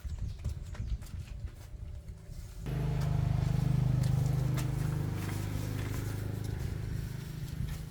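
Car engine running: a low rumble with scattered clicks, then about two and a half seconds in a louder, steady engine drone cuts in abruptly and holds.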